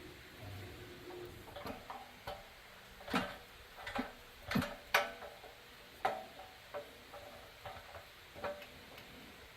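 Irregular light clicks and taps of small metal parts being handled, some with a brief ring, coming thicker and louder in the middle.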